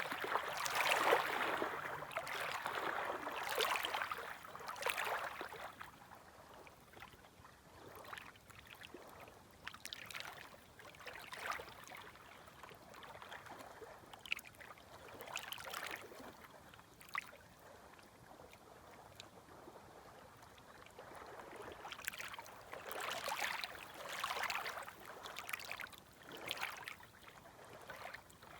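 Gentle small waves lapping at the shore. The water washes in louder surges at the start and again about three quarters of the way through, with quieter lapping and small splashes between.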